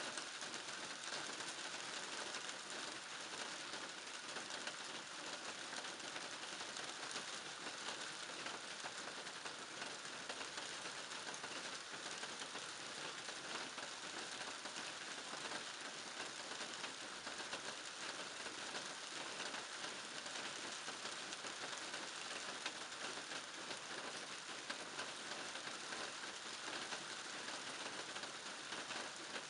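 Steady rain falling in a garden, a continuous hiss of drops pattering on surfaces with many fine individual drop ticks.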